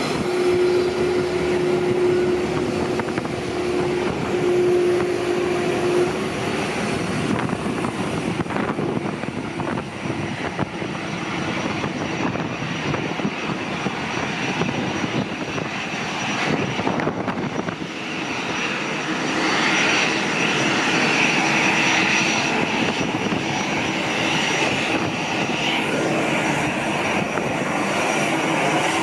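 Jet airliner engines running as an aircraft taxis by, a steady rushing whine with a low hum early on that gives way to a louder, brighter whine about two-thirds of the way in.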